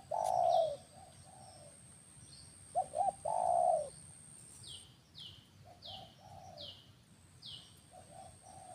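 Low cooing bird calls: a couple of short notes and then a longer one, loudest at the start and again about three seconds in, fainter later. A run of five high, falling chirps from a second bird comes midway, over a thin steady high whine.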